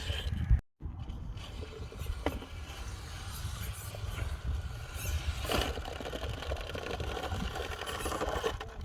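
Radio-controlled truck running, with scattered knocks and wind buffeting the microphone; the sound drops out completely for a moment under a second in.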